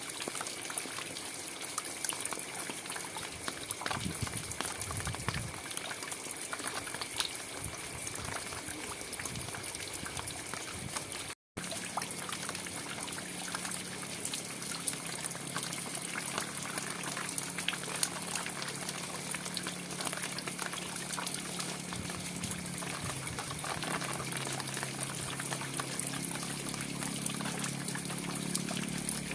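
Steady rain, a dense hiss full of small drop ticks and splashes. It cuts out for an instant about eleven seconds in, and after that a low steady hum sits under the rain.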